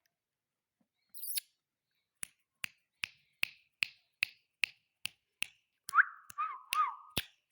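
A steady run of sharp clicks, about two and a half a second, and near the end short whistled notes, one quickly rising and others wavering.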